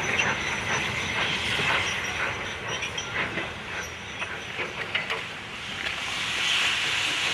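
Steam tank locomotive and its train on the move, with wheels clicking and knocking over the rail joints. From about six seconds in, a steady steam hiss takes over.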